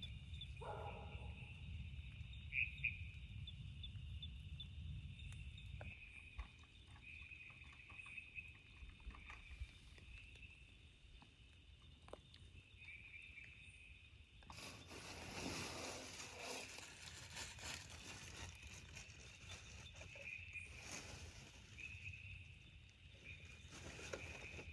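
Faint, steady chirping of forest insects in a high, pulsing band. About halfway through, a broad hiss with a light patter comes in suddenly and carries on under the chirping.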